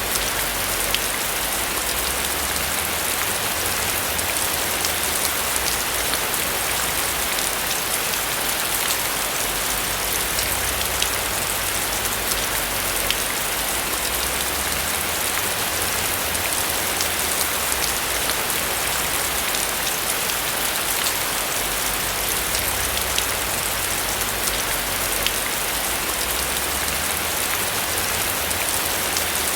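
Steady rain falling on a roof: an even, constant hiss with many small sharp ticks of individual drops striking.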